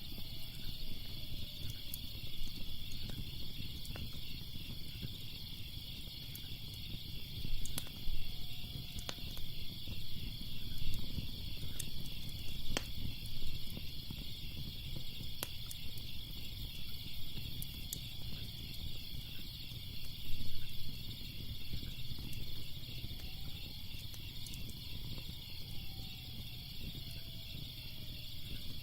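Crickets chirping in a steady pulsing trill over a low rumble, with a log fire crackling and popping in scattered sharp clicks. A few faint falling tones drift through now and then.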